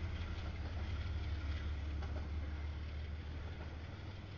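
Double-stack intermodal freight cars rolling past on the rails: a steady low rumble and rattle of wheels and cars, slowly growing quieter.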